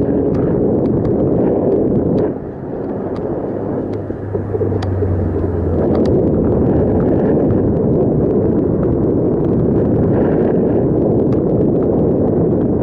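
Wind buffeting the microphone of a moving bicycle: a loud, steady low rumble with scattered small clicks and rattles. It eases briefly from about two to six seconds in, when a low steady hum comes through.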